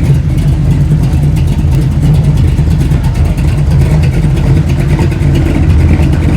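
A classic car's engine running close by: a steady, loud, low rumble with rapid exhaust pulses.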